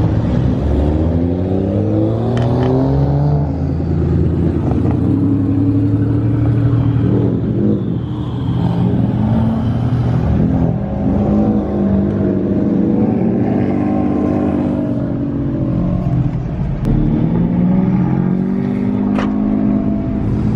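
Car engine accelerating, its pitch rising over the first few seconds, then running at a fairly steady pitch at speed, and climbing again near the end.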